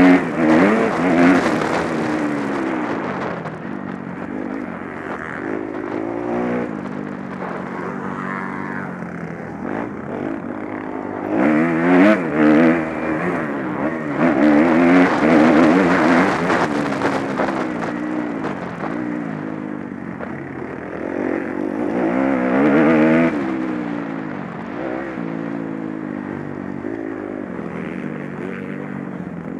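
Motocross bikes racing past, their engines revving up and down as they go through the gears. The sound swells loudest near the start, again about midway, and once more a few seconds later.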